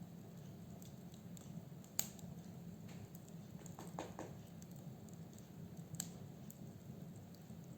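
Wood fire burning in a fireplace: irregular crackles and small pops from the burning logs, with sharper pops about two and six seconds in, over a low steady rush of the flames. A brief faint squeal comes from the wood just before the middle.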